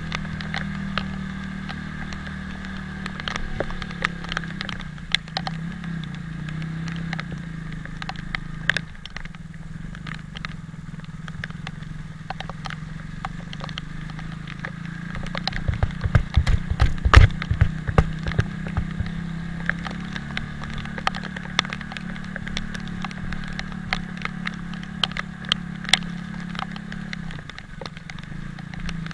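Italika 250Z motorcycle engine running steadily while riding, its pitch shifting slightly, with scattered crackling clicks throughout. A cluster of heavy low thumps comes about halfway through.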